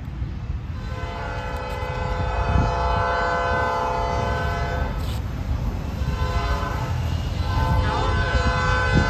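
Locomotive air horn, a Nathan P5, sounding two long blasts with a short break about five seconds in, over the low rumble of the train.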